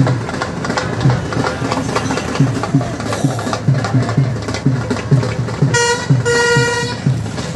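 A vehicle horn honks twice near the end, a short blast and then a longer one, over a steady, regular low thudding beat.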